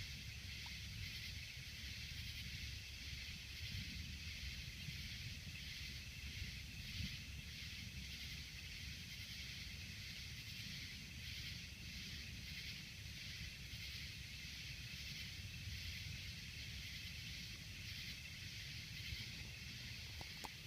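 Steady outdoor ambience during a thunderstorm: a high, faintly pulsing hiss over a low, constant rumble.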